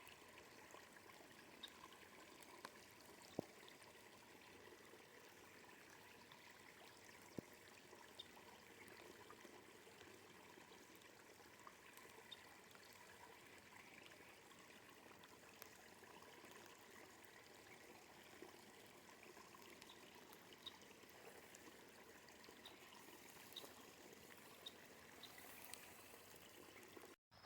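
Faint, steady water noise, an even hiss like running water or rain, with scattered light ticks and drips through it. It cuts off abruptly just before the end.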